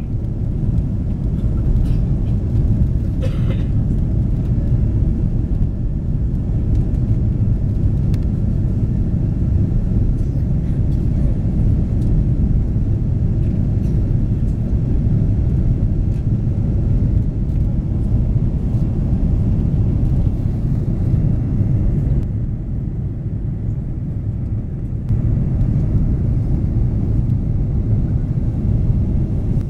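Steady low rumble of an Airbus A330-200's Rolls-Royce Trent 700 engines and the airflow, heard inside the passenger cabin in flight. It drops a little quieter for a few seconds about twenty-two seconds in.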